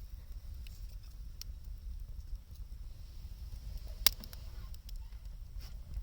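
Wood fire crackling, with scattered small pops and one loud sharp pop about four seconds in, over a steady low rumble.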